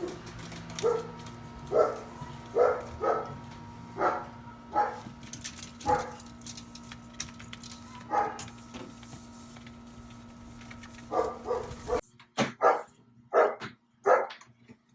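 Dog barking repeatedly, short barks about once a second, over a steady hum; the hum cuts off abruptly near the end while the barking goes on.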